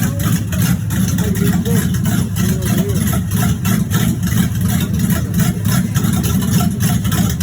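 1986 Monte Carlo SS's 305 V8 running steadily, with the rod knock of a failing bottom end.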